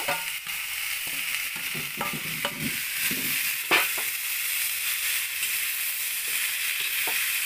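Pork, onion and chilli mixture sizzling in a hot steel kadhai while a metal spatula stirs it, scraping and knocking against the pan; a steady frying hiss runs underneath, and the loudest knock comes about four seconds in.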